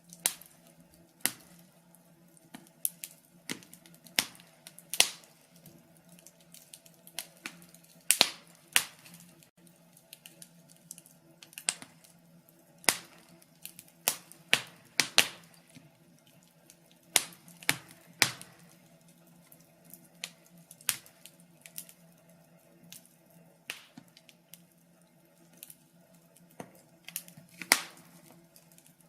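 Fire crackling: irregular sharp pops and snaps, sometimes several in quick succession, with the loudest clusters about eight seconds in and near the end, over a faint steady low hum.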